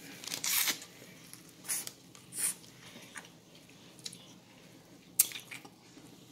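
A person biting into and chewing corn on the cob close to the microphone: a string of wet mouth smacks and chewing noises, the sharpest smack about five seconds in.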